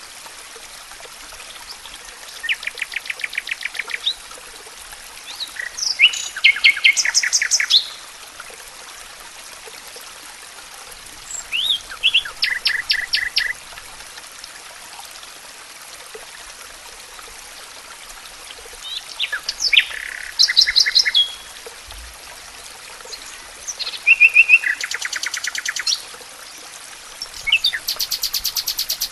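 Songbirds singing: short, fast trilled phrases, each a second or two long, repeated about every four to six seconds over a steady soft hiss.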